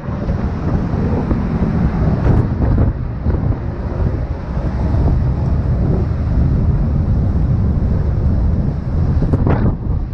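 Storm wind of about 30 metres a second buffeting the microphone: a loud, dense, steady rumble.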